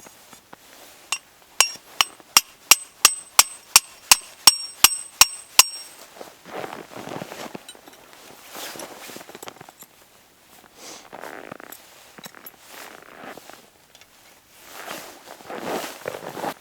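A hammer striking a metal tent stake about a dozen times, roughly three blows a second, each blow ringing, while the stake is driven into snowy ground. The hammering stops, then irregular crunching follows.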